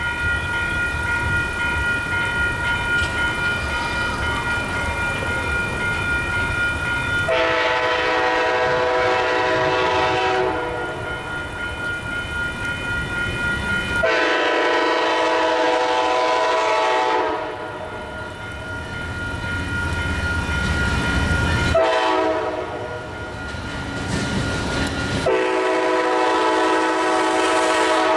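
Amtrak GE P42DC locomotive's horn sounding long blasts for a grade crossing, with a brief blast near the end, after several seconds of a steady high-pitched ringing tone, most likely the crossing's warning bell.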